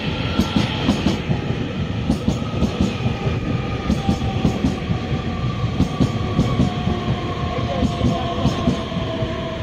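Taiwan Railways EMU3000 electric multiple unit pulling into the station and slowing, its wheels clacking rapidly over rail joints, with a whine that falls slowly in pitch as it slows.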